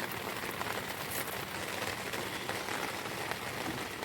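Heavy rain falling steadily on a dome tent and its flysheet, heard from inside the tent as a dense, even patter.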